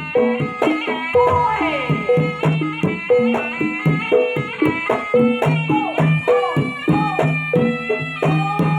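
Jaranan barongan accompaniment music: drums and struck pitched percussion playing a steady, fast rhythm of about three strokes a second, the tones stepping between a few notes, with a melody line above that bends up and down in pitch.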